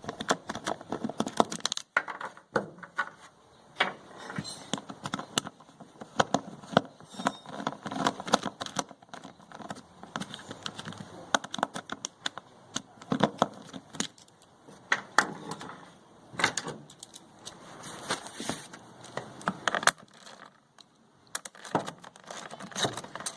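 Screws being backed out of a portable inverter generator's casing with a Phillips screwdriver and handled: irregular clicks, scrapes and small metal rattles, with a quieter pause near the end.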